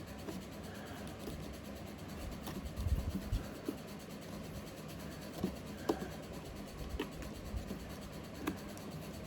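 Loose substrate being spread and pressed down by hand inside a terrarium: soft scraping and rubbing, with a few low thumps about three seconds in and several light taps after.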